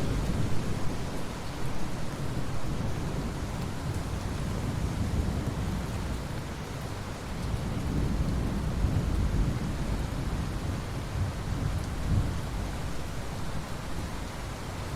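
Steady rain with thunder rumbling deep and low, strongest right at the start and again in a long roll through the middle.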